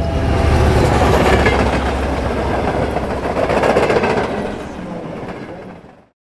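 A train passing with a loud, steady rumble of wheels on rails, loudest about four seconds in, then fading and cutting off suddenly near the end.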